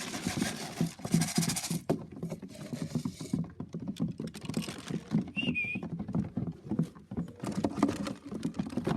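Pigeons cooing, with a rustle of wing-flapping in the first few seconds and a short high chirp about five and a half seconds in.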